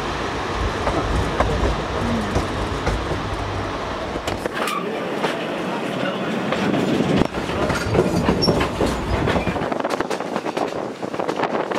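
Narrow-gauge passenger train rolling along the track, heard from on board: steady wheel and running noise with a deep rumble that drops away about four seconds in. After that come frequent sharp clicks of the wheels over the rails.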